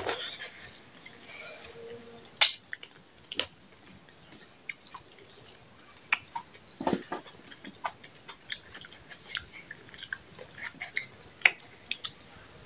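Close-up eating sounds of people chewing rice and chicken eaten by hand: irregular wet mouth clicks and smacks, with a few sharper, louder clicks.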